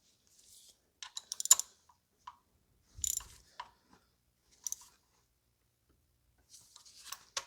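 Small ratchet clicking in short, irregular bursts as spark plugs in a BMW N55 inline-six cylinder head are snugged down by hand.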